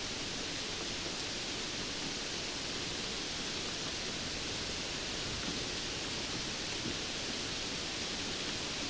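Steady rain falling, an even hiss with no thunder or single drops standing out.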